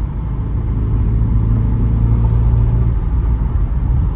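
Audi RS7 Performance's twin-turbo V8 pulling on the road, heard inside the cabin as a low exhaust rumble. A steady droning note sits over it and eases off about three seconds in.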